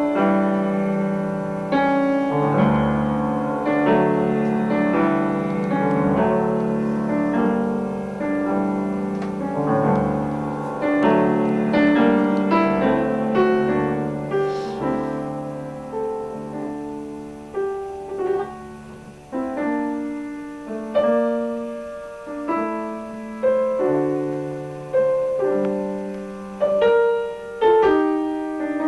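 Piano music: a slow piece played in chords over a bass line, each note struck and dying away.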